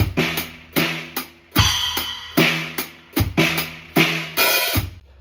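A drum kit being played: repeated drum hits with ringing tone and cymbal crashes, stopping abruptly near the end.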